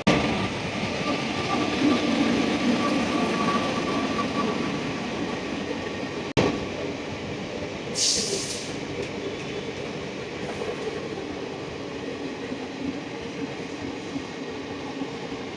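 Train running along the tracks: a steady rumble of wheels on rail, with a faint squealing tone in the first few seconds and a brief hiss about eight seconds in.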